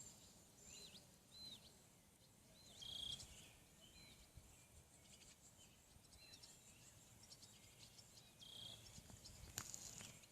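Faint bird calls: short high chirps, each a quick hooked note, repeated every second or so, with a single sharp click near the end.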